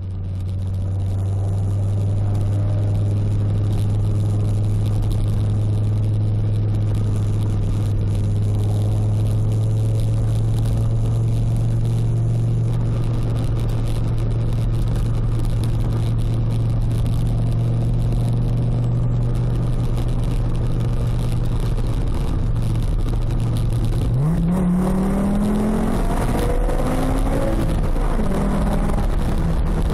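Fiat Coupé 20v's naturally aspirated inline-five running through a loud custom stainless exhaust (Cybox line with a sports catalyst), holding a steady engine note at cruise. Late on the engine revs up sharply, its pitch rising quickly, then rises and falls as the throttle changes.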